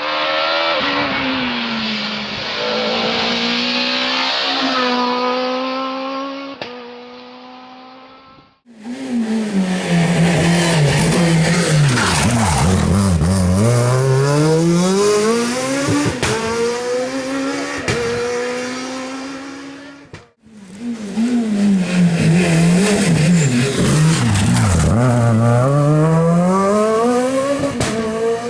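Rally cars at stage speed, three separate passes: in each, engine revs drop sharply as the car brakes and downshifts into a corner, then climb again in steps through the gears as it accelerates away.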